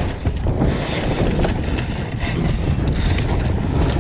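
Wind buffeting the microphone aboard a sailboat under way, over the rush of water along the hull, with a few light knocks.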